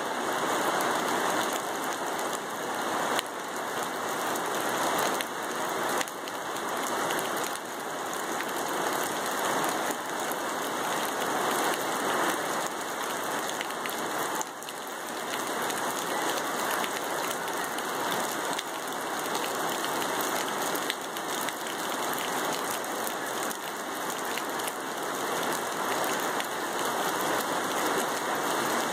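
Steady rain falling: an even hiss of many small drops.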